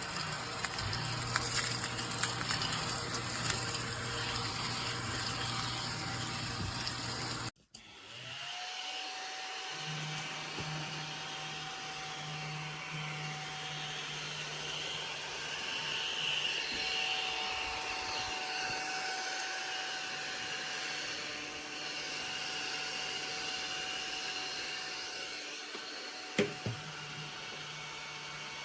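Small AA-battery-powered desktop vacuum cleaner running with a steady whirring whine. The sound breaks off abruptly about a third of the way in, then carries on at a steadier, different pitch. There is one sharp click near the end.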